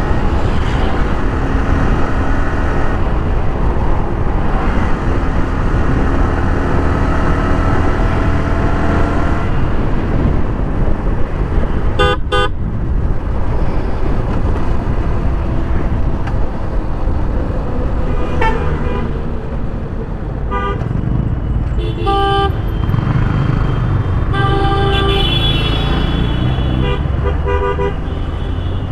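Yamaha R15 V3 motorcycle's single-cylinder engine running on the road with changing revs, and vehicle horns honking in short blasts several times during the second half.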